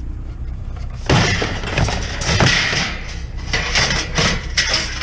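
Clattering and knocking of junk being handled and shifted in a curbside pile, a run of irregular hard knocks starting about a second in.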